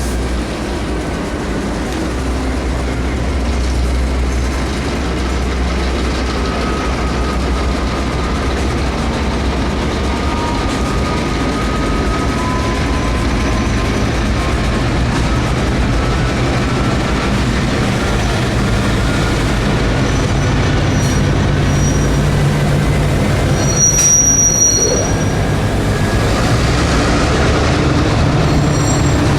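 Diesel-hauled freight train moving slowly, its locomotive engine droning steadily and growing gradually louder, with faint steel wheel squeal and a brief, sharper high squeal late on.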